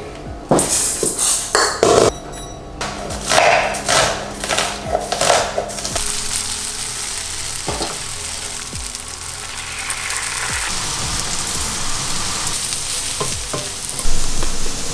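Cubes of tofu frying in a pan on a gas hob, a steady sizzle through the second half. In the first several seconds it is broken by knocks and scrapes of utensils against the pan.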